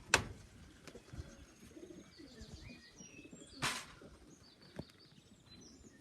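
Pigeons cooing at the loft, with small birds chirping in the background. A single sharp tap just after the start, from the tap meant to put the young pigeons up, and a short burst of wing flapping a little past the middle.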